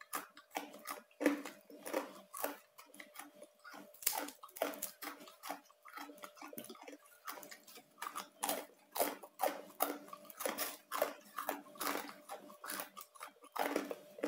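Close-up mouth sounds of a person chewing crunchy roast pork: irregular wet clicks and crunches several times a second.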